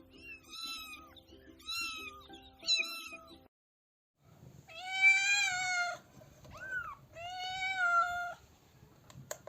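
Cats meowing: three short meows, then after a brief cut, two long drawn-out meows with a short rising call between them. Steady low tones sit under the first three meows, and there is a single click near the end.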